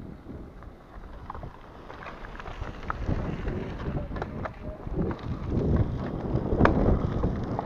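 Wind buffeting the microphone on a moving gravel bike, with a low tyre rumble and scattered clicks and rattles. It grows louder from about three seconds in, and there is one sharper click near the end.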